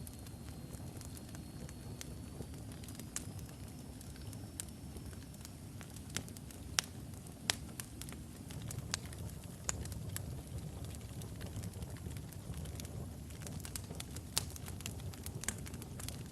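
Wood logs burning in a fireplace: a steady low rumble of flame with irregular sharp crackles and pops, a few of them louder. A faint high whistle sounds early on, rising slightly before fading out about five seconds in.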